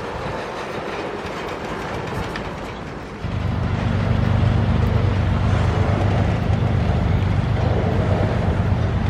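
Train rolling past on the rails. About three seconds in, a louder steady low drone starts suddenly and holds.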